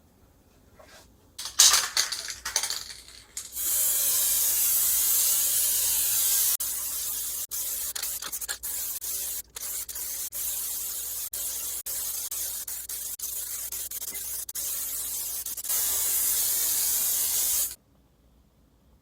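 Aerosol spray can hissing in long, steady sprays with a few brief breaks, then cutting off abruptly; a couple of seconds of rattling and knocks come first.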